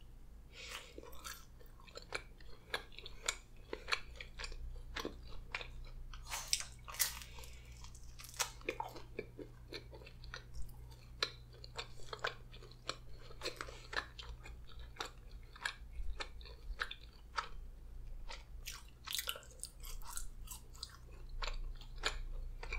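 Close-miked chewing and biting of a slice of cheese pizza: many short wet clicks and crunches of the crust, over a steady low electrical hum.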